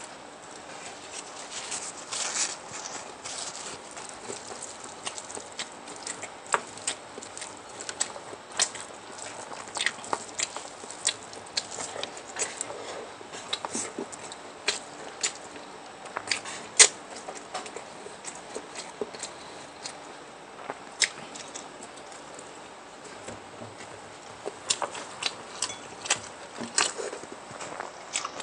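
Close-miked eating sounds: chewing, with irregular sharp clicks and crackles throughout.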